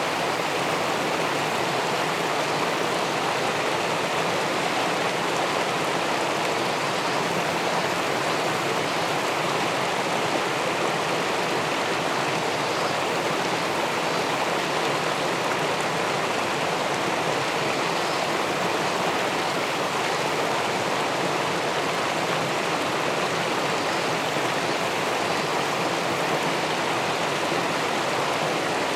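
Steady rush of river water spilling over a check dam into the pool below, an even hiss with no breaks.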